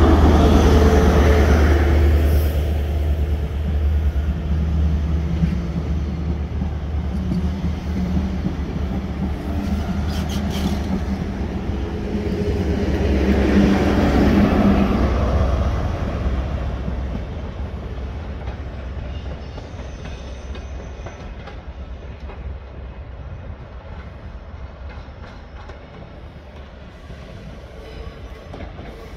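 High Speed Train set with a Class 43 diesel power car at each end running past along the platform. The leading power car's engine drones loudly at the start, the coaches rumble and click by, and the rear power car's engine swells past about 14 seconds in. The train then fades away into the distance.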